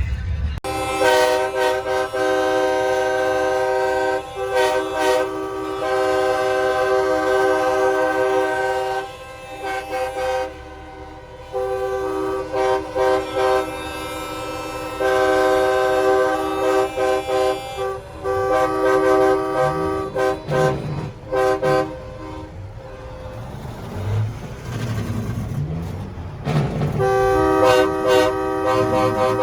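Semi-truck air horns blasting in long, steady chords, again and again with short breaks between.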